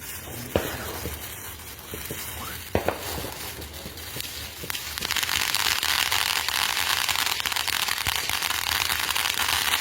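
Consumer firework fountain spraying with a dense crackle, with a couple of sharper pops in the first few seconds. It grows louder about five seconds in.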